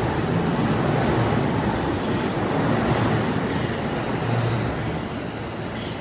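JR East E233-series electric commuter train running past a station platform: a steady rumble of wheels and motors that eases off slightly near the end.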